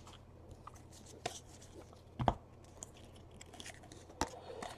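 Faint handling of baseball trading cards being flipped through by hand: soft rustling with a few sharp clicks, about a second, two seconds and four seconds in.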